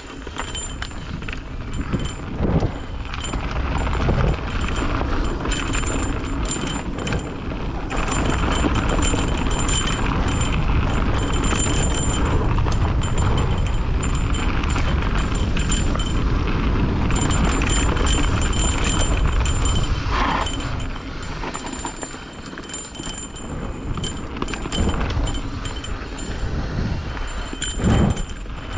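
Mountain bike being ridden along a wet dirt trail: tyres on the ground, the bike rattling and clicking over bumps, and wind on the microphone, easing off briefly about two-thirds of the way through.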